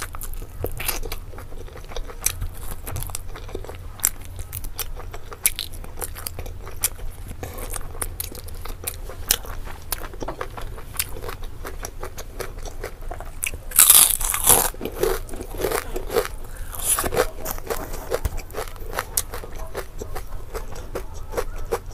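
Close-miked eating sounds: a person biting and chewing chicken meat off the bone, many small wet clicks and crunches, with a louder crunching burst about fourteen seconds in. A low steady hum lies underneath.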